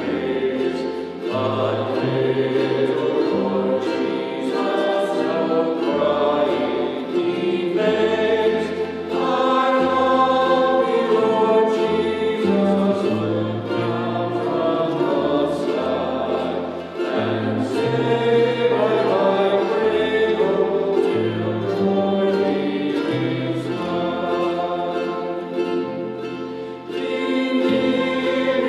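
A choir singing with instrumental accompaniment, over a line of held bass notes.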